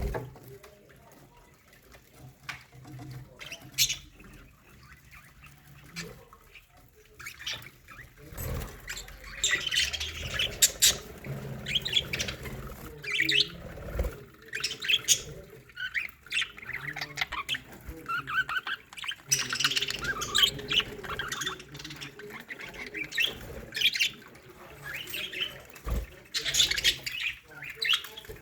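A colony of budgerigars singing and chirping, with many overlapping short high calls. The calls are sparse at first and become a busy, continuous chatter from about eight seconds in.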